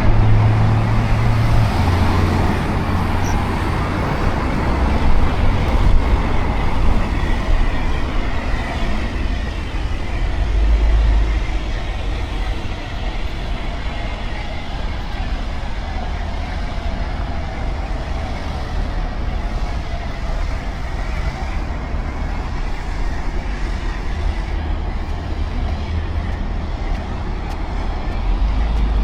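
Steady city road traffic: a continuous hiss of passing cars with a low rumble underneath, swelling a little twice in the first half.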